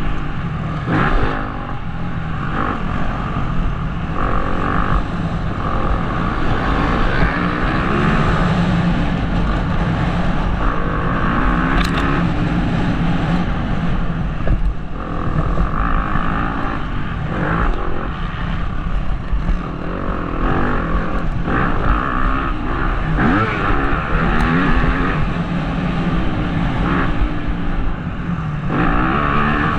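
Motocross bike engine revving up and down again and again through the gears, heard from a helmet-mounted camera with wind rush. Two sharp ticks cut through, about twelve seconds in and again near twenty-four seconds.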